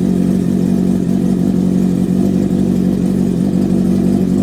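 Honda CB650R inline-four engine idling steadily through an aftermarket full exhaust system with a loop, giving a deep, bassy note.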